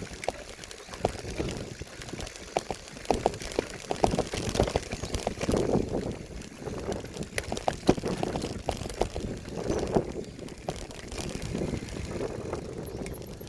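Bicycle ridden over a rough forest trail: a continuous rumbling ride noise broken by frequent irregular knocks and rattles as it jolts over bumps.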